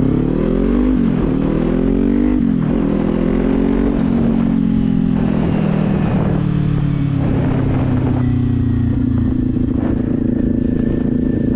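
Motorcycle engine with an aftermarket Leo Vince exhaust accelerating through the gears: the pitch rises and drops sharply at two quick upshifts in the first few seconds, climbs once more, then settles into a steady cruise.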